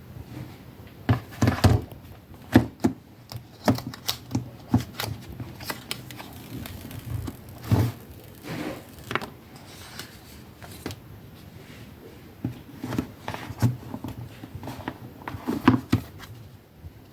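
Hands handling a phone and its packaging: irregular light taps, clicks and knocks with some rustling.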